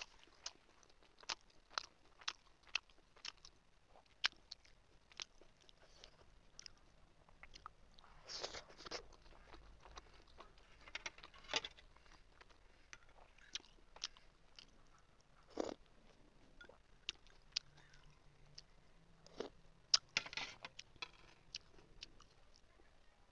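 Close-up eating sounds of a large steamed chicken momo being chewed: soft wet mouth clicks and smacks in an uneven run, with two short longer noisy stretches, about eight seconds in and again near twenty seconds.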